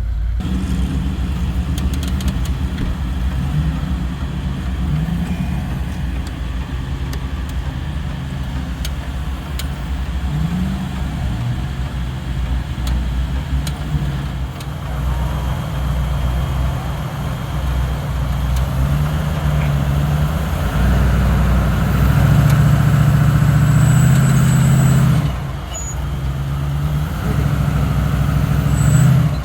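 Off-road truck engine idling and revving under load, its pitch wavering up and down. About two-thirds of the way in it runs harder and louder, drops off abruptly, then builds again near the end.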